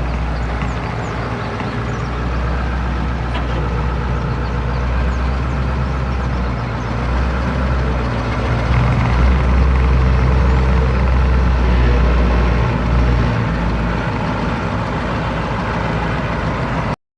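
1987 GMC TopKick's GM 8.2-litre turbo diesel V8 running at a fairly steady speed, swelling slightly in level now and then. It cuts off suddenly near the end.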